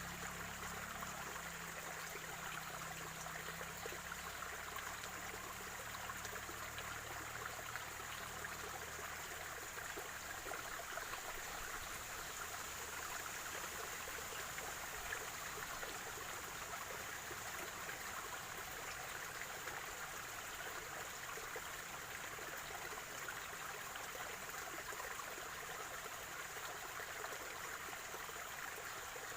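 Spring water running and gurgling in a small stream, a steady trickle and splash.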